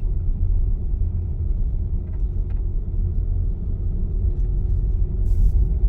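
Steady low rumble of a vehicle driving slowly, heard from inside its cabin: engine and road noise.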